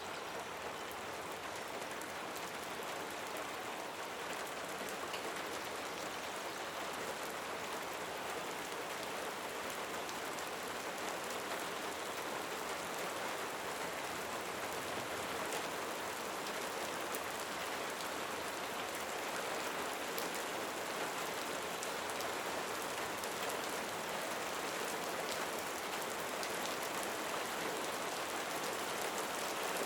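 Steady rain falling: an even hiss with faint scattered drop ticks, growing slowly louder.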